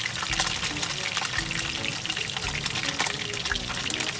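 Pieces of rainbow trout frying in hot oil in a frying pan: a steady sizzle with dense fine crackling.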